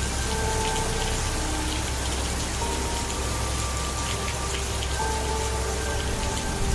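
Steady rain falling, with soft held music notes that come and go underneath.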